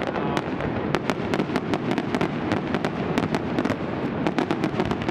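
Fireworks display in a heavy barrage: a rapid, unbroken run of sharp cracks and bangs, several a second, over a continuous low rumble.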